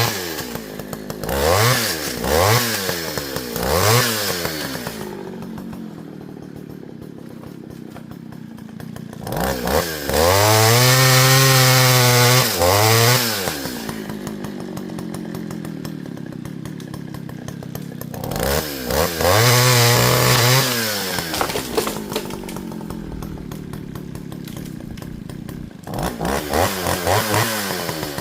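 Partner Farmer two-stroke chainsaw idling and being revved. It gives quick throttle blips in the first few seconds, two held high revs of about three seconds each around ten and nineteen seconds in, and more blips near the end.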